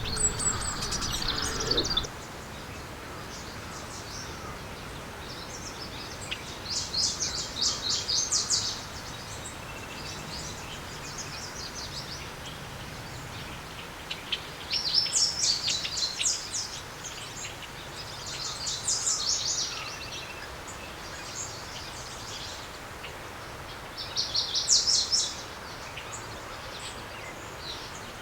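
Small songbirds chirping in quick, high trilled bursts, about five bursts a few seconds apart, over a steady outdoor hiss.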